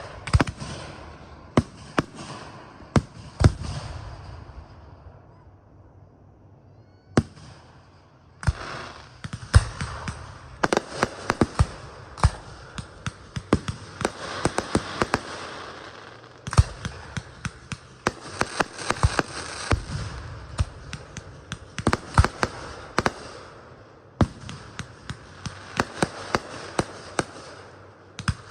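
Fireworks display: many sharp bangs over dense crackling, dropping to a lull for a few seconds near the start before the bursts pick up again and run on thick and fast.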